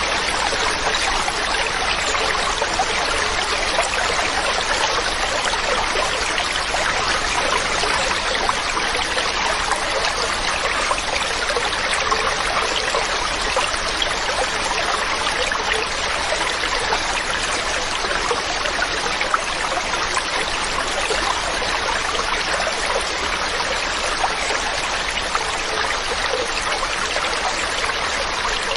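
Mountain stream running steadily over rocks, an even rushing with fine splashing and trickling.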